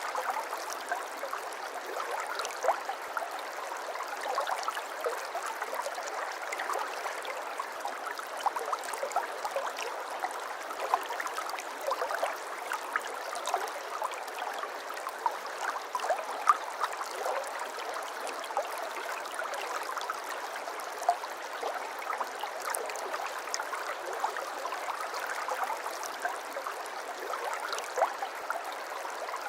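Shallow water trickling and babbling steadily over stones, full of small splashes and gurgles.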